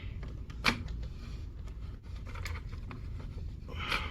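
Handling noise from parts of an Umarex Gauntlet air rifle's barrel assembly being fitted. There is one sharp click under a second in, a few fainter ticks, and a brief scrape near the end, over a low steady hum.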